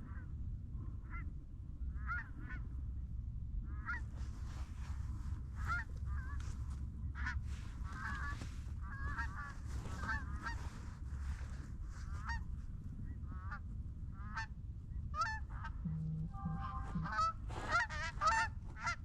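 A flock of geese honking and clucking overhead, the calls sparse at first, then coming thick from about four seconds in and growing louder toward the end as the birds close in on the decoy spread.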